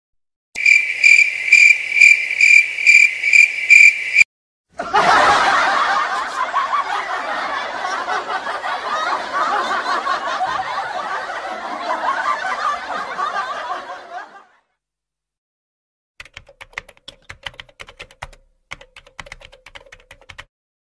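A string of separate sound effects: first a quick run of about eight high electronic beeps, then about ten seconds of laughter, then after a short pause a few seconds of irregular clicks like computer keyboard typing.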